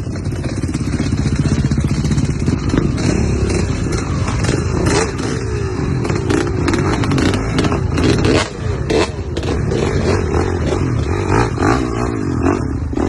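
Off-road motor vehicle engines revving, the pitch rising and falling again and again, with frequent sharp clicks and knocks mixed in.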